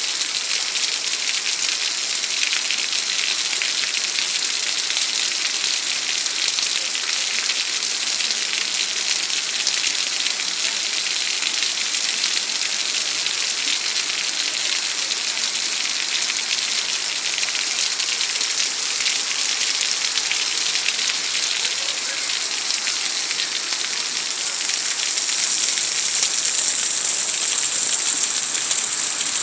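Heavy rain falling steadily, an even hiss that grows a little louder near the end.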